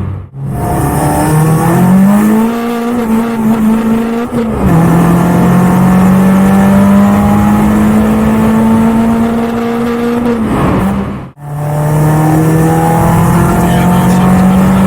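Renault Clio track car's engine pulling at fairly steady revs inside the cabin. There are two short breaks in the sound, near the start and about 11 seconds in, each followed by lower revs: upshifts. The revs also rise a little about 2 seconds in and fall back about 4.5 seconds in.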